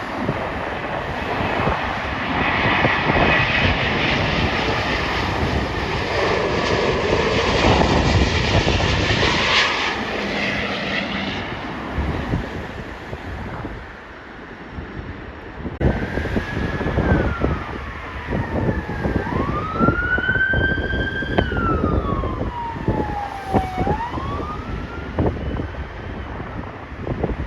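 An arriving jet airliner's engine noise swells and fades over the first half. Then an emergency vehicle siren wails, rising and falling in pitch, while gusts of wind buffet the microphone.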